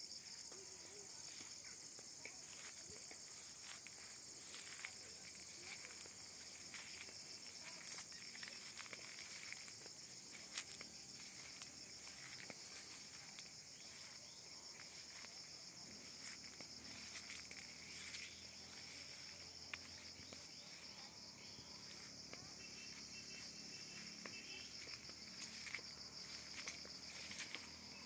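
Steady high-pitched chorus of insects, with faint scattered clicks and rustles over it.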